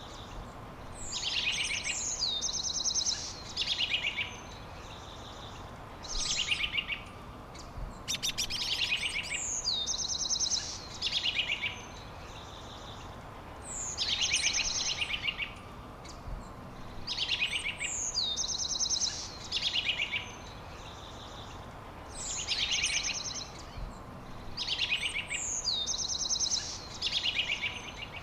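A songbird singing the same phrase over and over, every few seconds: high chirps and downward-swooping notes with a fast trill in each phrase, over a steady background hiss.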